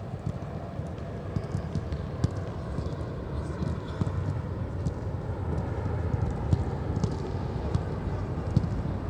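Outdoor football training-pitch ambience: a steady low rumble with scattered sharp knocks of footballs being struck.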